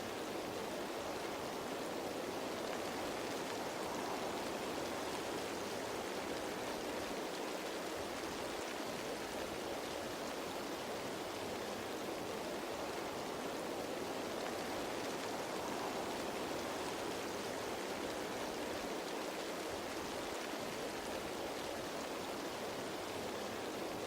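Rain falling on leaves, a steady, even hiss with no single drops standing out.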